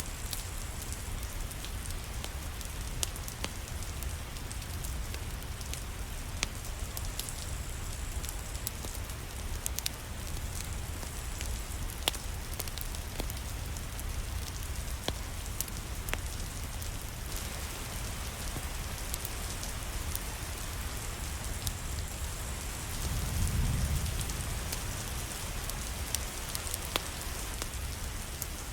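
Steady rain falling, with scattered sharp clicks. A brief low rumble swells and fades about three-quarters of the way through.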